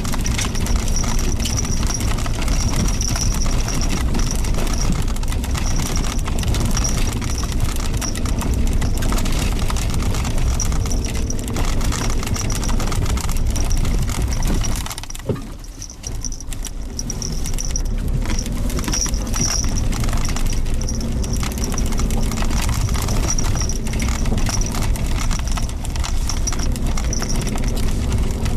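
Suzuki Jimny Sierra driving on a gravel forest track: engine running and tyres crunching over stones, with many small knocks and rattles. About halfway through the sound briefly drops away, then builds back up.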